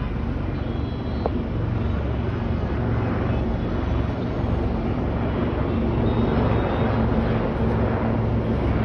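Aircraft engines droning overhead, a steady low hum that slowly grows louder.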